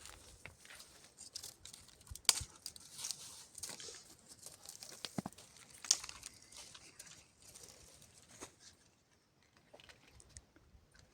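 Dry brushwood crackling and snapping as it is handled, with irregular crackles and scattered sharp snaps, the two loudest about two and six seconds in, growing quieter near the end.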